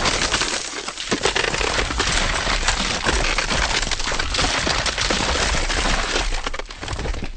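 A dense, continuous run of sharp cracks and clinks, with a low rumble underneath, cutting off abruptly near the end.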